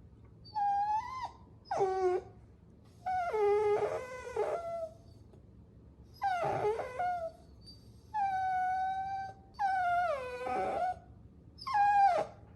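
Puppy whining: a run of about seven high-pitched cries separated by short pauses. Several drop in pitch at the end, and one, about eight seconds in, is held steady for over a second.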